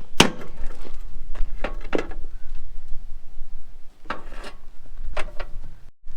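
Irregular sharp knocks and clanks, about half a dozen, some with a brief metallic ring, from hand work on a grain auger whose bearings are shot.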